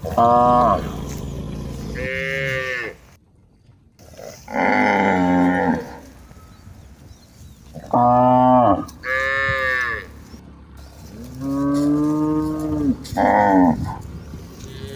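Cattle mooing: about seven drawn-out moos one after another, some low and deep, others higher-pitched, with a brief silence about three seconds in.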